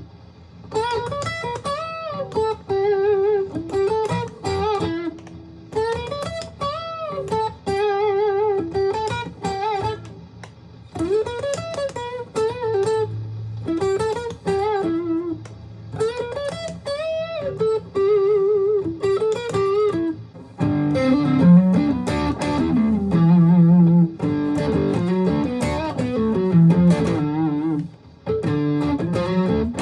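Aria STG-series electric guitar played solo: a single-note lead melody with string bends and vibrato, changing about twenty seconds in to lower, fuller chordal riffing.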